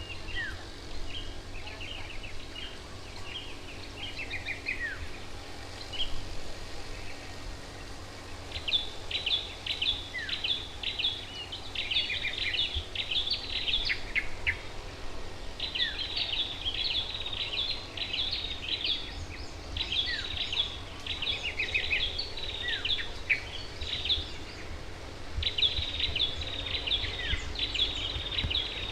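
Wild birds chirping and twittering: scattered chirps at first, then from about eight seconds in dense runs of rapid high chirps with short pauses, with an occasional falling note from another bird, over a steady low rumble.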